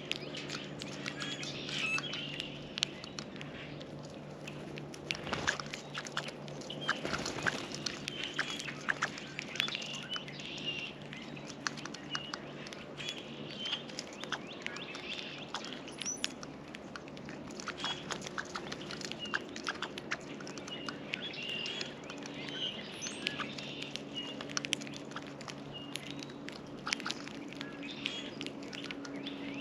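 Small songbirds at a seed feeder: frequent short chirps and calls, over many sharp taps and clicks. A steady low hum runs underneath.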